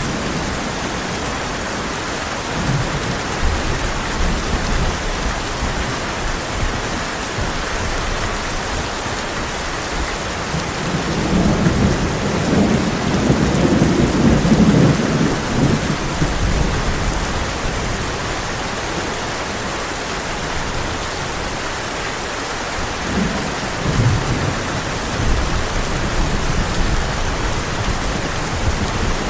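Heavy rain drumming steadily on a tin roof, with thunder rumbling through it. The loudest roll of thunder swells from about 11 s to 16 s, and a shorter one comes near 24 s.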